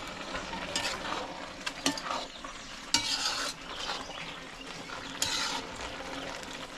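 Bhaji of bok choy and chow rai frying in a pot, sizzling steadily while a spoon stirs it, scraping against the pot in several short strokes.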